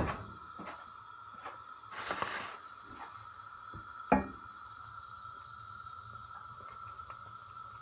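Small kitchen handling sounds while an omelette cooks in the pan: a sharp click at the start, a short rustle about two seconds in, and a single knock about four seconds in, over a faint steady tone.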